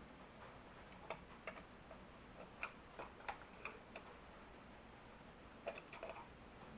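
Faint, irregular light clicks and taps of hand tools and chainsaw parts being handled, about nine in all, mostly in the first half and a couple more near the end.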